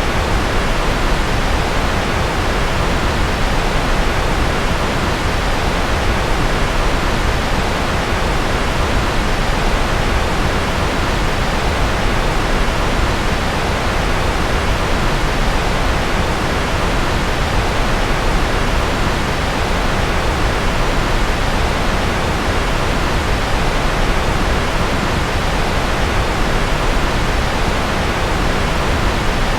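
Steady, unchanging rushing noise, heavier in the low end, like the rumble of a jet or rocket, played as a white-noise sleep track.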